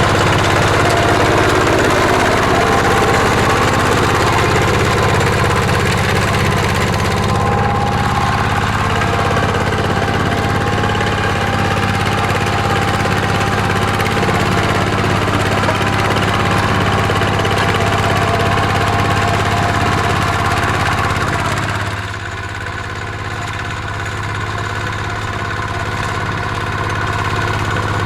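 Mini tractor engine running steadily while plowing. Its level drops about 22 seconds in, then gradually builds back.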